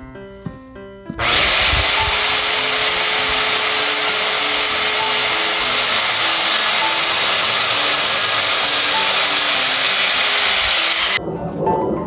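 An electric power tool's motor spins up about a second in, runs steadily and loudly for about ten seconds, then stops. Background music plays underneath.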